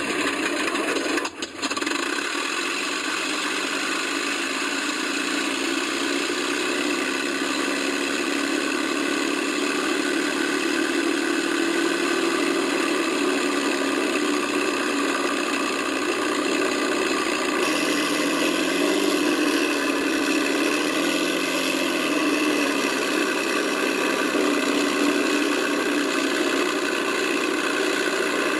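Simulated Rolls-Royce Merlin V12 engine sound from an RC model's sound card, played loud through two transducers mounted on the fuselage, running steadily at idle. It dips briefly about a second in, and its pitch rises and falls a little about two-thirds of the way through.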